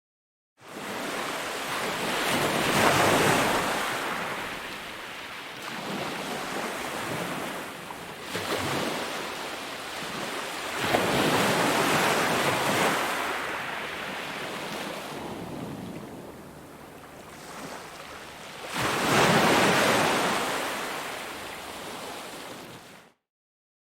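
Ocean waves breaking and washing up, three swells of surf about eight seconds apart, each rising to a crash and fading back into a softer wash. The sound starts abruptly just after the beginning and cuts off shortly before the end.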